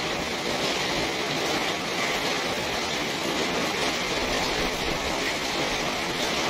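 Steady rain falling on a garden and porch, an even hiss with no letup.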